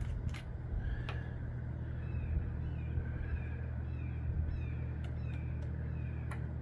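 A bird calling over and over in short falling chirps, about two a second, over a steady low hum. A few sharp clicks come near the start and just before the end.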